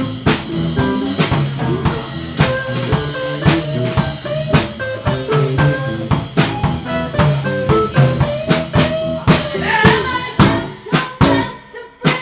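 Live band playing an instrumental passage: drum kit keeping a steady beat under a bass line and a lead melody. Near the end the drums play a dense run of hits before a brief drop.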